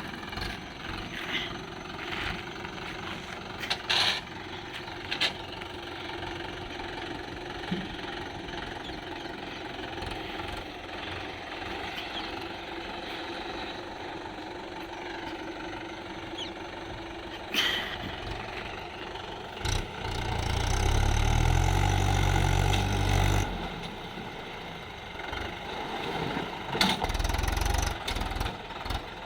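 Swaraj tractor's diesel engine running steadily, with sharp knocks at intervals and a loud low rumble for about three seconds in the second half.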